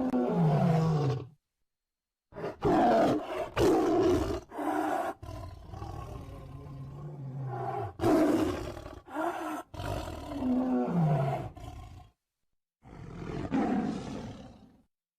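Tiger roaring and growling in a string of rough calls, some falling in pitch, broken by two short spells of dead silence where the clips are spliced together.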